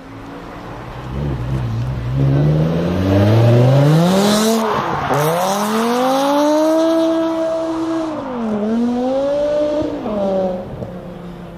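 A car engine revving hard. Its pitch climbs for a few seconds, drops sharply about five seconds in, then climbs again and holds high, dipping and recovering once more before it falls away near the end.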